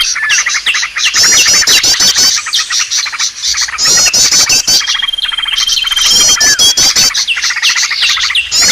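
Bird-lure recording of many small birds chirping and calling at once: a loud, dense twittering, with a phrase of rapid high sweeping notes coming back every couple of seconds.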